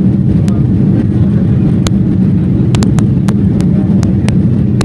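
Steady low rumble of a moving vehicle heard from inside, with scattered sharp clicks.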